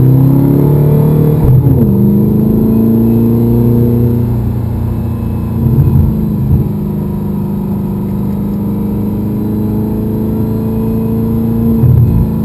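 Audi R8's engine under hard acceleration, heard from inside the cabin: the revs climb, drop sharply at an upshift about a second and a half in, then pull steadily and slowly higher in the next gear.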